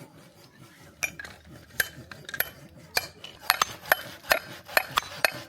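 Steel splitting wedge (日月鉄工所 x BASE550 kunai wedge) being struck into firewood: sharp metallic clinks, a few at first and then a quicker, uneven run in the second half, as more than one person strikes.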